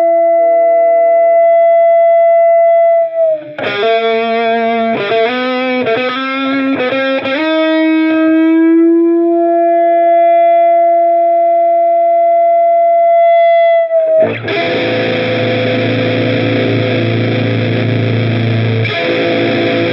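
Electric guitar played at high gain through the Olinthus Cicada overdrive. There are long sustained notes and a quick run of bent, wavering notes in the first half. About 14 s in a thick distorted chord is struck, and it is struck again near the end.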